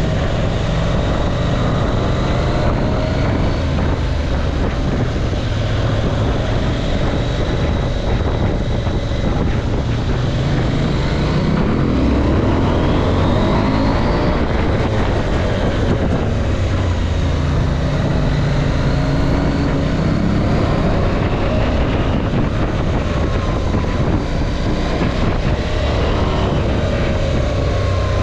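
KTM 790 Adventure's parallel-twin engine running as the motorcycle rides along, with wind noise on the camera microphone. The engine pitch rises and falls with the throttle, climbing clearly about halfway through and again about two-thirds of the way in.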